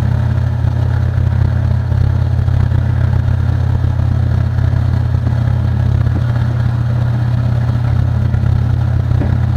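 Electric motor of a small machine tool running steadily, giving a loud, even low hum.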